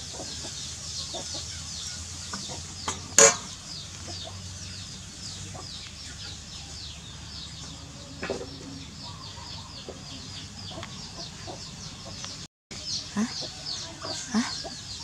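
Many birds chirping continuously in the background, a dense stream of short, high, falling chirps. A single sharp click comes about three seconds in.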